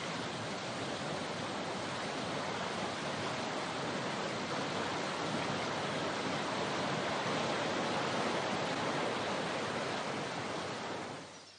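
Steady rush of falling water, like a waterfall, fading out near the end.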